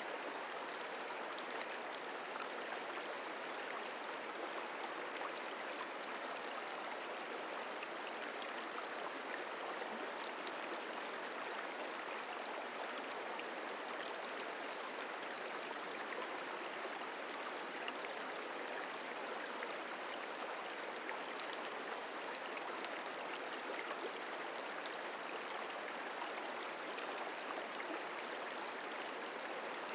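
The Merced River flowing: a steady, even rush of running water with no change.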